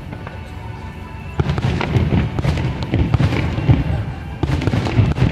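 Aerial fireworks bursting in quick succession, a dense run of bangs and crackles with deep rumbling booms, starting after a quieter first second or so. Music plays underneath.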